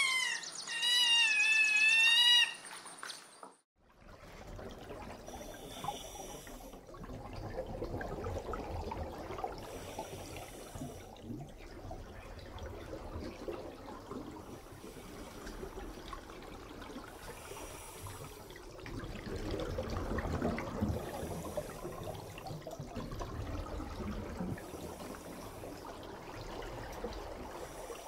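Sea otter squealing: several high, wavering calls that stop after about two and a half seconds. Then a low, muffled rush of water as heard underwater, steady with a slight swell past the middle.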